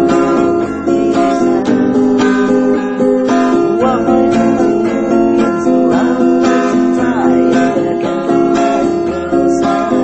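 Acoustic guitar strummed in steady chords, a regular rhythm of strokes.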